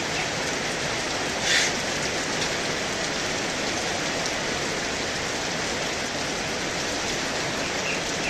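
Heavy rain falling steadily, an even hiss, with one short louder sound about a second and a half in.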